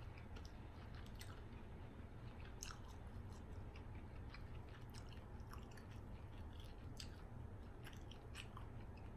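A person quietly chewing seafood-boil food, with scattered small wet clicks and smacks of the mouth, over a low steady hum.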